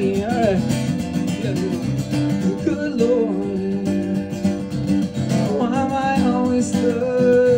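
Strummed acoustic guitar playing a blues song, with a singer's long held notes sliding up and down in pitch a few times.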